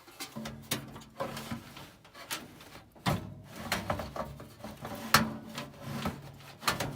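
Furnace blower motor being worked into its mounting: a run of knocks, clunks and scraping as the motor is shifted against the blower housing to line it up. The loudest knock comes about five seconds in.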